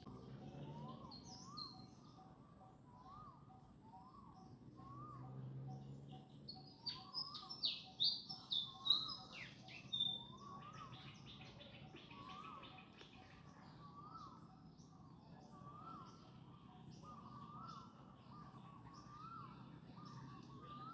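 Birds calling: one bird repeats a short, rising-and-falling call about once a second, and a burst of loud, high, sharp chirps comes in about a third of the way through and stops after a few seconds.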